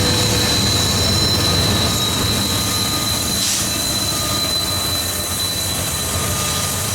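A loaded BNSF aggregate freight train rolling past at close range: a steady rumble of wheels on rail, with a thin, high, steady wheel squeal running through it.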